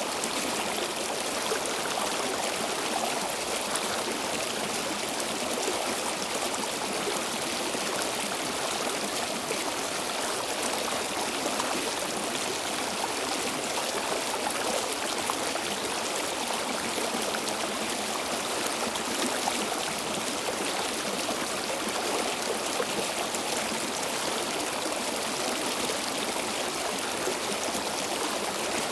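Stream water flowing steadily over stones, a continuous rushing with a fine babbling texture and no breaks.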